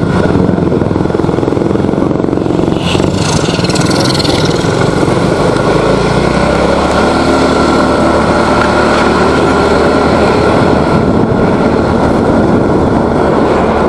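Motorcycle running under way, with a steady rushing noise over it. From about six seconds in, the engine note settles into a steady low hum.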